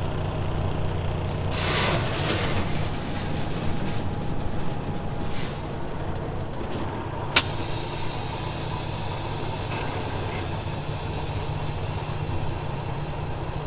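Peterbilt 379 dump truck's diesel engine idling steadily, with one sharp click about halfway through.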